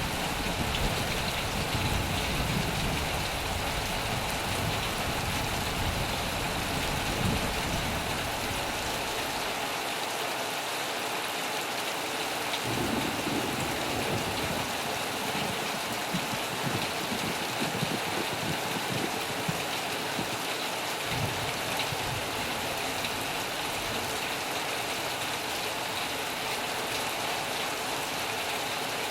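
Heavy rain falling steadily on a metal roof, a dense even hiss, with a low rumble of thunder underneath that fades about nine seconds in and returns more weakly in the middle.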